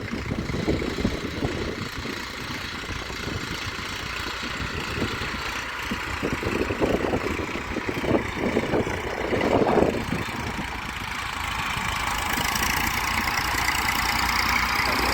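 A vehicle engine running steadily at idle, with uneven low rumbles swelling for a few seconds around the middle.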